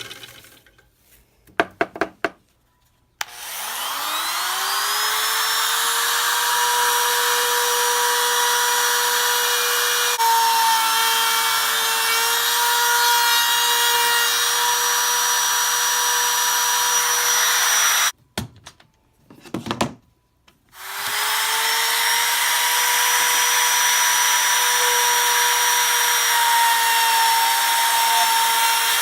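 Ridgid TS3650 table saw starting with a rising whine and running steadily, its blade being raised to cut up through a new phenolic zero-clearance insert. The running stops abruptly about 18 seconds in, a few clicks follow, and the saw starts up again with the same rising whine.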